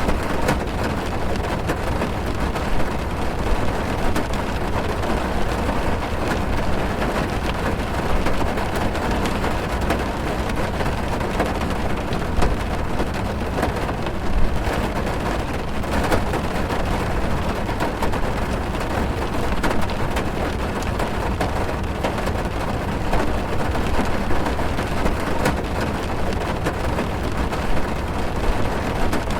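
Heavy rain drumming on a car's roof and windows, heard from inside the car: a steady deep rush with many small pattering drop hits.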